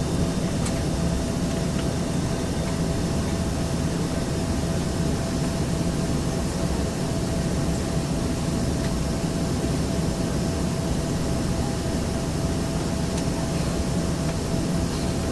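Steady cabin noise of an Embraer ERJ-135 on the ground with its rear-mounted turbofan engines running: an even low hum and hiss with a thin steady tone, heard from inside the passenger cabin.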